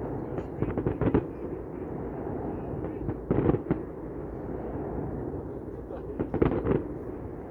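Fireworks display going off in three quick clusters of sharp bangs, about three seconds apart, with a steady murmur of crowd noise between them.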